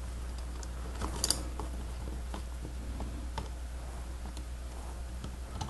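Lego Technic plastic parts clicking and snapping as they are fitted together, in scattered small clicks with a sharper snap a little over a second in, over a steady low hum.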